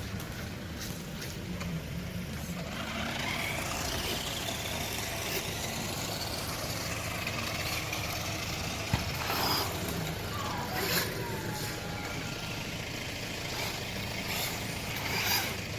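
Brushless electric motor of a 1/10-scale RC monster truck whining, its pitch rising and falling as it speeds up and slows down, over a steady low rumble.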